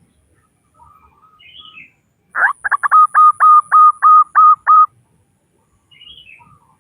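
Female zebra dove giving its staccato call, a lure call for males: a quick stutter of short notes, then about eight evenly spaced clear notes over roughly two seconds. Faint chirps from other small birds come before and after it.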